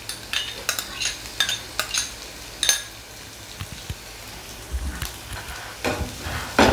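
Sliced onion and chopped garlic sizzling in hot refined vegetable oil in a nonstick frying pan, with scattered crackles and pops. Near the end a spatula stirs them, scraping across the pan.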